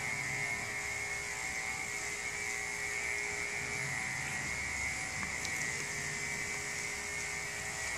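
Electric pet clippers running steadily, a constant motor hum with a high whine, while shaving a long-haired Himalayan cat's coat.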